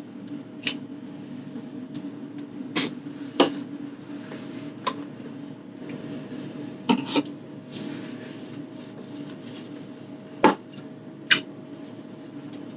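Food containers, jars and bottles being handled and set down while a fridge is emptied out: a scattered series of sharp knocks and clinks, about eight in all, over a steady hum.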